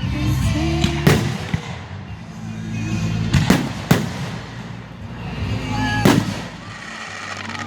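Fireworks shells exploding in four sharp booms, two of them close together, over background music.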